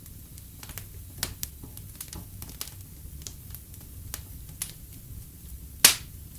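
Fireplace fire crackling over a low steady rumble, with scattered pops and one loud pop near the end.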